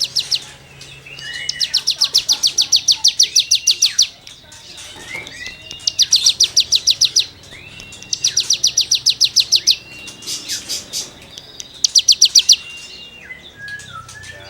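Cigun songbird singing: trains of rapid scratchy notes, about ten a second and each train lasting one to two seconds. Short arched whistles come in between the trains.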